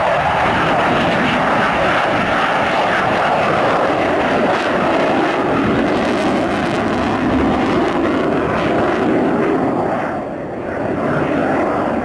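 Sukhoi Su-27 jet fighter passing in a flying display, its twin AL-31F turbofans making a loud, steady jet noise that dips briefly near the end.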